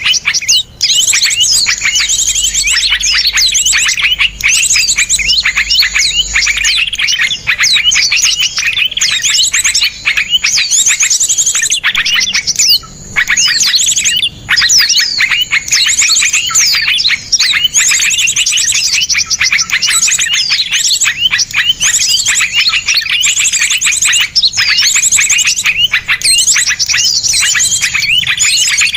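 Dense chorus of small songbirds: rapid, sharp chirps and fast trills overlapping without a break.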